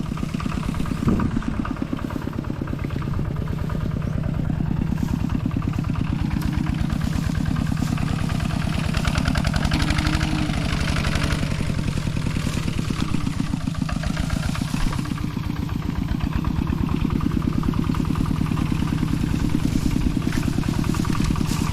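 A small vehicle engine running steadily under way, with an even, rapid firing beat and a low hum throughout.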